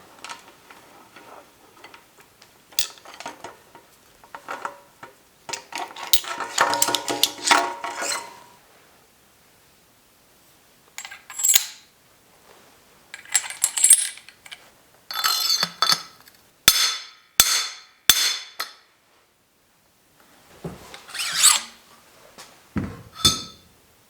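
Hand tools and bicycle parts being handled in a bike workshop: metal clinks and rattles, a longer stretch of ringing metal a few seconds in, then scattered clinks. Midway come three sharp clicks well under a second apart, and two more knocks near the end.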